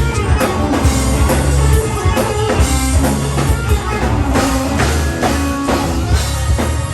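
Live band playing funk-rock with a drum kit keeping a steady beat under bass and electric guitar, in an instrumental stretch without vocals.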